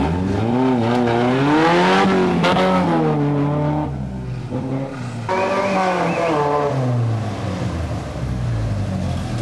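Off-road 4x4 race vehicle engines revving as they pull away from the start line. The engine note climbs and falls twice, the second time starting about five seconds in.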